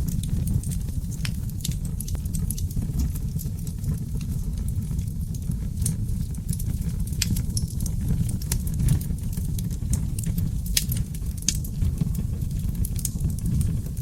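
Wood fire burning in a fireplace: a steady low rumble of the flames with irregular sharp crackles and pops from the burning logs, a few each second.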